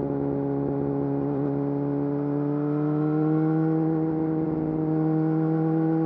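Yamaha YZF-R6 inline-four engine through an Akrapovič full exhaust system, running steadily with its pitch rising slowly and evenly as the revs climb.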